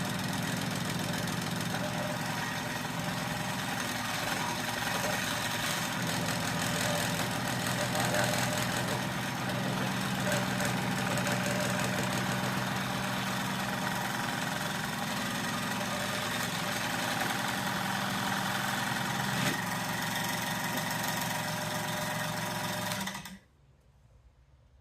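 Power saw running and cutting through a block of epoxy resin with a pinecone cast in it: a steady motor hum under a broad cutting noise. The saw cuts off abruptly near the end.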